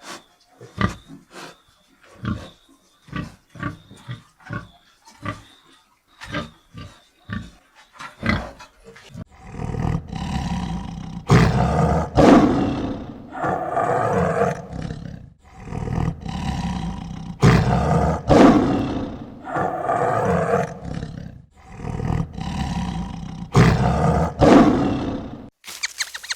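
A run of short grunts, then from about nine seconds in a big cat roaring in a series of about seven long, loud calls, each a second or two long.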